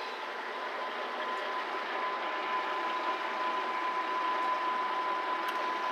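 Diesel railcar creeping along the platform at the end of its approach and drawing to a stop, a steady rumble of engine and running gear with one steady high tone through it.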